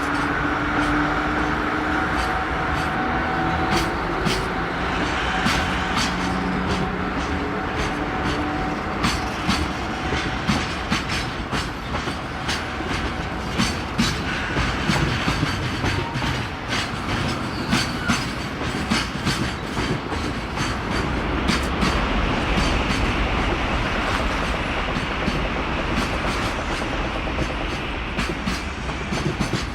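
Freight train passing: an electric locomotive's traction motors whine in the first few seconds, then the wagons' wheels clack repeatedly over the rail joints.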